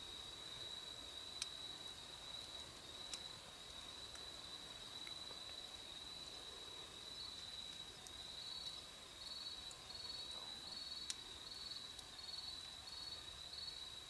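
A steady, high insect trill runs throughout. About halfway in a second insect joins with short chirps a little under twice a second. A few sharp pops from a burning wood campfire stand out, the loudest near the end.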